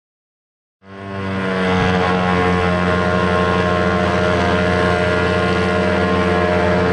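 Silence, then drag cars' engines fade in about a second in and run at a steady pitch as they sit staged at the start line, including the BK Race Engines–built XY Falcon.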